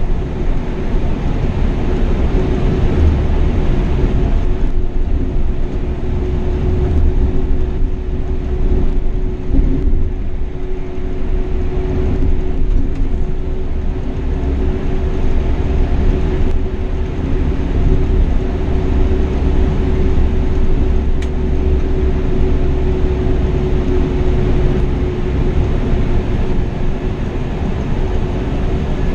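Marcopolo Paradiso 1800 DD double-decker coach on a Scania K420 chassis driving at speed: a loud, steady drone of engine and road noise, with a constant hum running under it.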